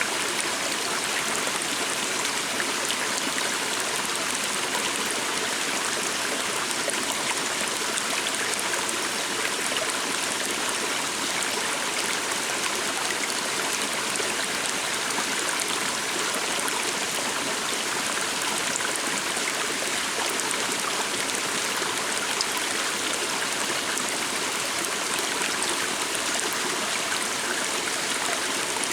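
A small stream running steadily over rocks, an even rushing and trickling of water.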